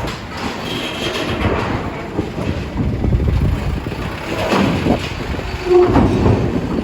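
Vehicles rolling over a ferry's steel loading ramp: a steady low rumble with scattered clanks and knocks, under wind noise.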